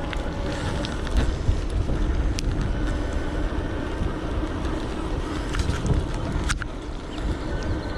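Riding noise from an electric bike going uphill: wind rumble on the camera's microphone and tyres on the road, with a faint steady whine and a few sharp clicks, the clearest about six and a half seconds in.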